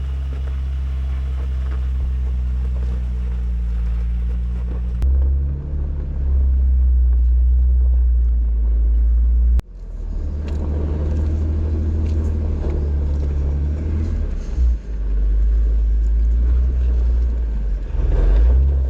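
Jeep engine running steadily on a dirt trail, a deep drone that breaks off abruptly twice and picks up again.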